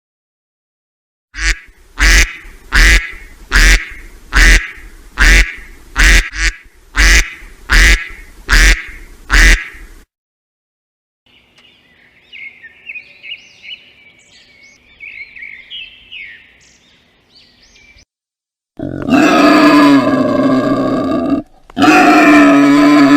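A run of about eleven loud, evenly spaced animal calls, roughly one a second. Then faint, high chirping for several seconds, and near the end a long, loud pitched call that breaks off briefly and starts again.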